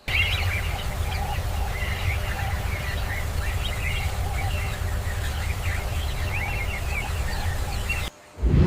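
Many birds chirping and calling over a steady low rumble. The sound cuts off suddenly near the end.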